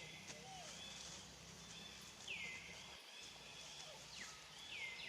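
An animal's high call that falls in pitch and then levels off, heard twice about two and a half seconds apart, over faint outdoor background noise.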